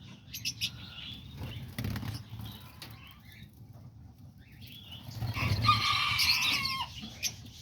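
Small aviary birds chirping and flapping their wings. Scattered flutters and scratches come first, then a louder run of chirping about five seconds in.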